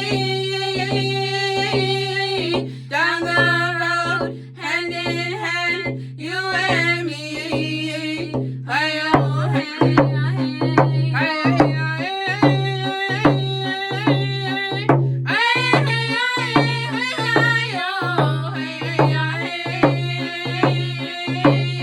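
Round dance song sung by two young women, with hand drum. The drum's steady beat comes in stronger about nine seconds in.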